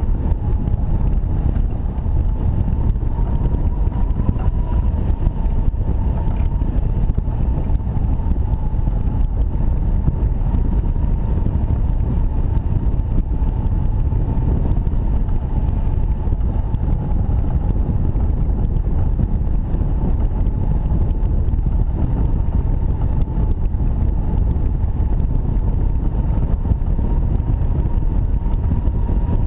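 Strong wind rushing and buffeting over the microphone of a hang glider in flight, with a thin steady high tone running underneath.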